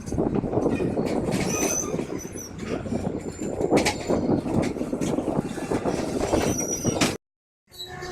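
Passenger train running on the track, heard from aboard: a steady rumble of wheels and coach with rattles and a few faint, brief wheel squeals. The sound cuts out abruptly for about half a second near the end, then the rumble comes back.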